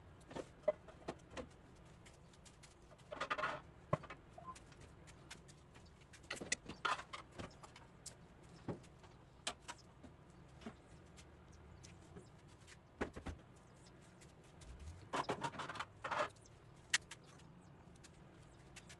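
Plastic refrigerator parts being handled and washed: scattered clicks and knocks, with three short noisy bursts of washing, about three seconds in, around seven seconds, and again near the end.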